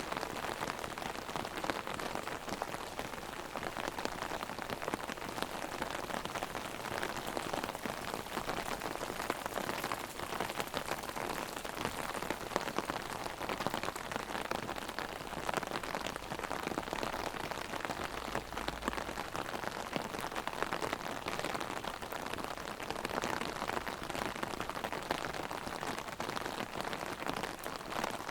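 Heavy rain drumming steadily on an umbrella held overhead: a dense patter of drops, even throughout.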